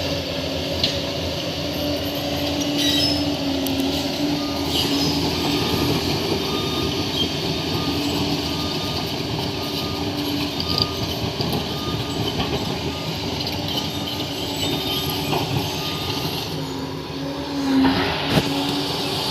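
Crawler bulldozer's diesel engine running steadily, with scattered metallic clanks and squeals from the steel tracks, and a louder surge near the end.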